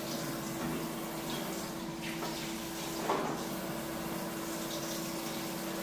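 Warm water running steadily during a monkey's bath, with a steady low hum underneath and a brief splash about three seconds in.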